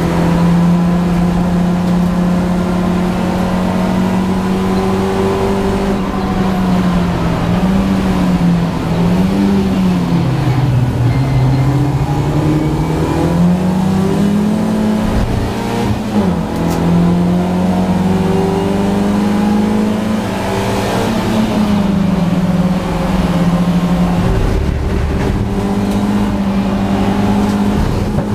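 BMW Compact race car's engine heard from inside its cabin, held at high revs under full throttle. About a third of the way in the note drops and climbs back up as the car slows for a corner and accelerates out, with a brief break for a gear change shortly after; near the end it dips and rises again.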